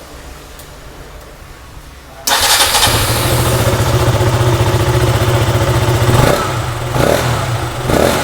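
KTM Duke 200's single-cylinder four-stroke engine starting about two seconds in and then idling, with a few short rises near the end. It is running on the stock air filter with the airbox opened and loosened, which gives the intake a little harsh sound.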